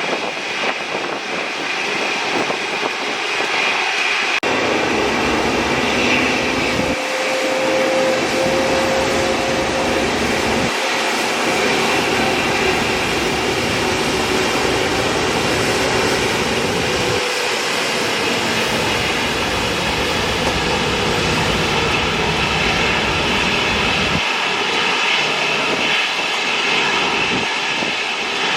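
Jet airliner engines running loudly and steadily, a dense hiss-like noise with a faint high whine. A deep rumble cuts in about four seconds in and drops out briefly several times.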